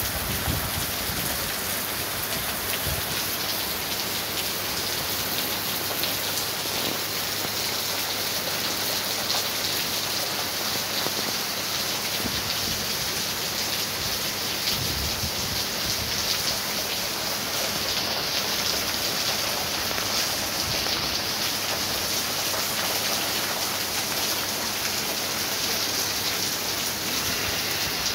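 Heavy rain pouring steadily onto a street: a dense, even hiss of downpour that holds constant throughout.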